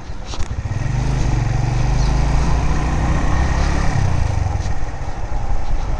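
A Suzuki GS 150 motorcycle engine running under way. It grows louder about a second in and eases off again after about four seconds.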